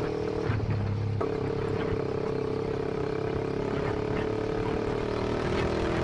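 Kawasaki Ninja 250 Mono's single-cylinder engine running at a steady pitch through an SC-Project aftermarket exhaust, its note shifting slightly about a second in.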